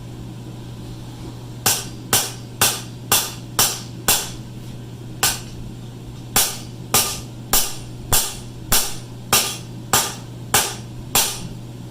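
Hand hammer striking hot steel on an anvil, about sixteen ringing blows at roughly two a second with a short pause partway through, as a heated ring is worked for a blacksmith's clamp. A steady low hum runs underneath.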